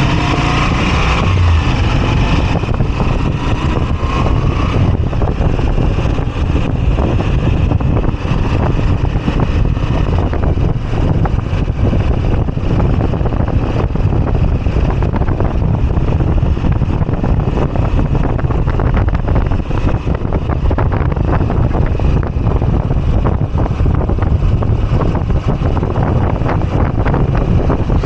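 Moto Guzzi V85TT's air-cooled transverse V-twin engine running under way, its revs rising over the first few seconds, with wind rushing over the microphone.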